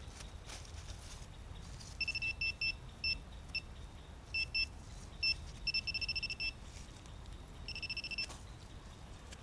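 Handheld metal detector pinpointer beeping at one high pitch as it is swept over a buried metal target: scattered short beeps and quick runs of beeps from about two seconds in, then one longer beep near the end.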